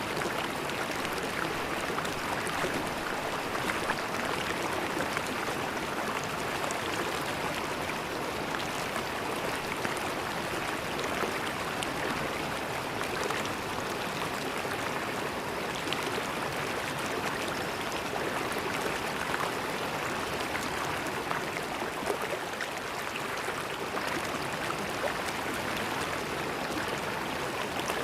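River water flowing steadily over stones, a continuous rushing babble with fine splashes and gurgles.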